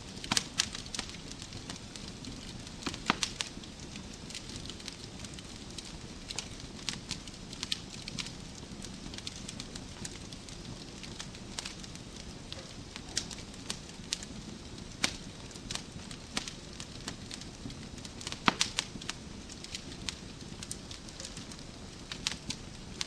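Wood fire crackling in a fireplace: a steady low hiss of burning logs with irregular sharp snaps and pops, a few louder ones scattered through.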